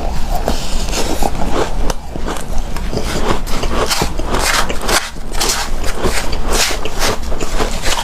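Close-miked chewing of powdery, snow-like ice: a dense, irregular run of crunches with a soft squeak.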